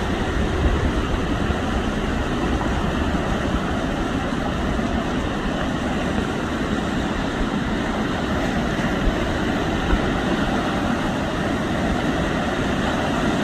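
Heavy surf and wind at sea: a steady rough rushing noise with a deep rumble and no clear engine note, broken by a few faint knocks.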